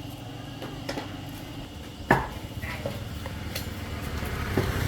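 A few scattered clinks and knocks, like dishes or utensils being handled, the loudest a sharp knock about two seconds in, over a steady low hum.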